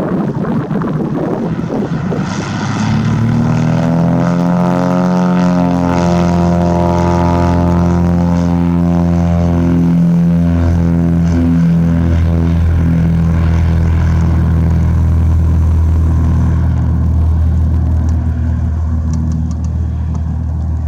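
Propeller airplane's engine and propeller droning loudly with a steady pitch. A rougher rumbling noise comes first, and the drone fades over the last few seconds.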